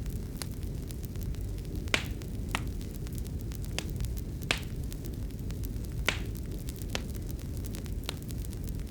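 Wood fire crackling: a steady low rumble with sharp, irregular pops about once a second, the loudest about two seconds in.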